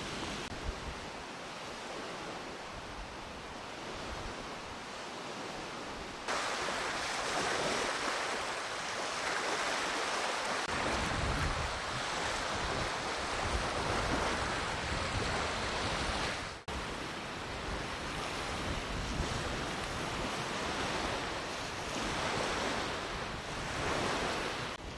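Wind over a lake with small waves washing against the shore, a steady rushing noise. From about ten seconds in, low gusts buffet the microphone. The sound jumps abruptly in level about six seconds in and again near seventeen seconds.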